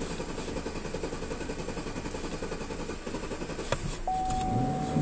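Car engine being cranked over by the starter without catching, an even rapid chugging. Near the end a click, then a steady high warning tone comes in.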